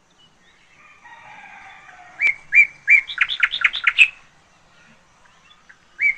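A bird singing a phrase of about ten short, high, chirping notes that starts slowly and speeds up over two seconds. The same phrase starts again right at the end.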